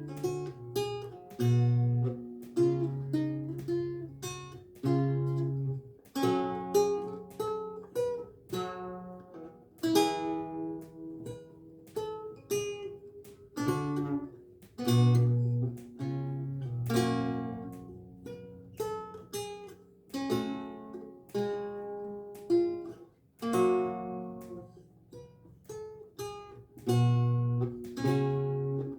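Renaissance lute with gut strings being played solo: plucked notes that ring and fade, chords and melody over a low bass line.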